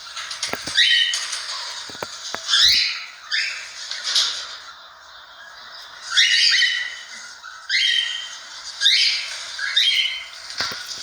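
Cockatiel giving a run of harsh, short squawking calls, about one a second, with a short pause midway.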